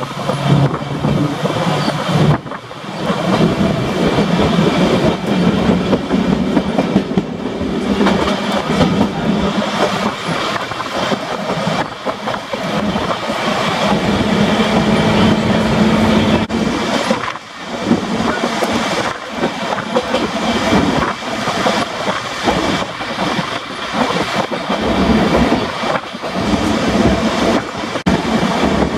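Manx Electric Railway heritage electric train running along the line, heard from on board an open-sided carriage: a steady running noise with a low hum and irregular clicks from the wheels on the track.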